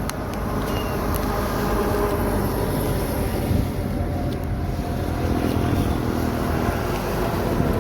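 Truck engine running, a steady low rumble with a droning engine tone that swells slightly in the middle.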